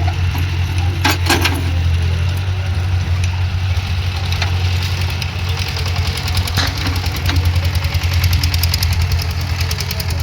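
Diesel engine of a JCB digging machine running with a steady, deep drone, with a couple of sharp knocks about a second in.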